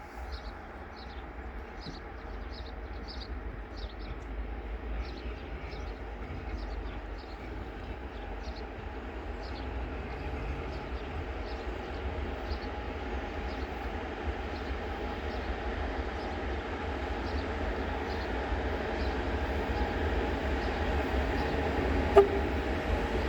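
Freight train approaching behind an electric locomotive, its steady rumble growing gradually louder. Short high chirps, like small birds, repeat through the first half, and a single sharp knock sounds near the end.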